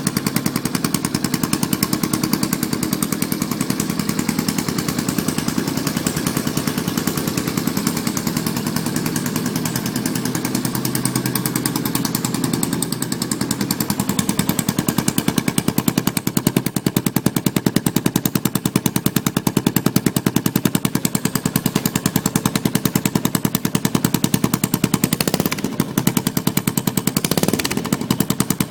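Aprilia SR 150 scooter engine running through a hand-made short exhaust, pretty loud, with a rapid, sharp popping beat. A couple of short revs come near the end.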